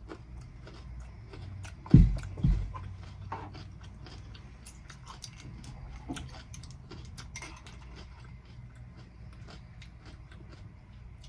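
Close-miked chewing and biting of cucumber salad, with many small wet, crunchy clicks. Two heavy low thumps come about two seconds in, half a second apart.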